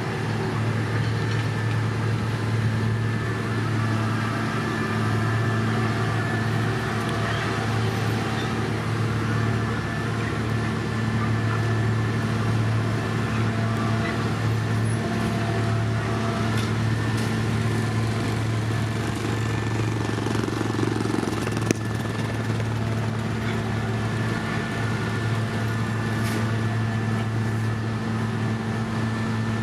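Diesel engine of heavy asphalt-paving machinery running steadily at a constant low hum. One sharp click comes about 22 seconds in.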